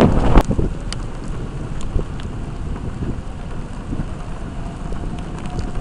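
Storm wind rushing and buffeting the microphone with rain, and scattered sharp ticks of drops striking; loudest with a couple of knocks in the first half second, then a steady rush.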